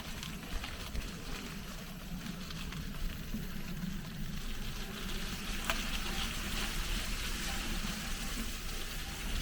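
Mountain bike being ridden off-road: steady tyre-on-dirt noise and rattling with wind rumble on the microphone, and one sharp knock near the middle.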